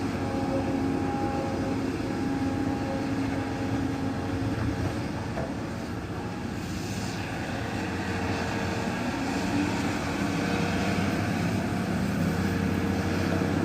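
Volvo EC480 excavator's diesel engine running steadily under working load, its note easing off slightly around the middle and picking up again.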